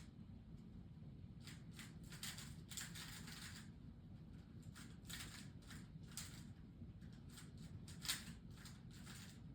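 Pet budgerigars making faint scratchy chatter and rustling: short raspy bursts in scattered clusters over a low steady hum.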